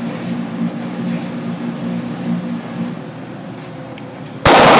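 A steady low hum, then near the end a single loud 9mm pistol shot, a sharp crack with a short ringing tail.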